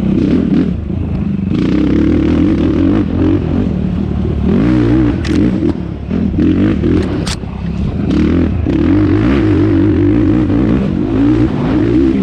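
Yamaha YFZ450R quad's single-cylinder four-stroke engine revving up and down as the ATV is ridden over rough ground, with chassis clatter. Two sharp clicks come a couple of seconds apart midway through.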